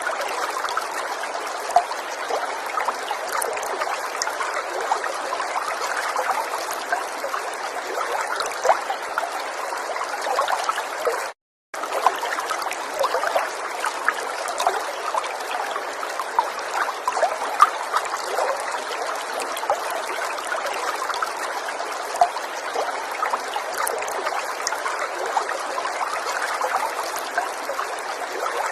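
River water trickling and babbling steadily over a shallow bed, with a constant run of small splashes. The sound drops out completely for about half a second near the middle.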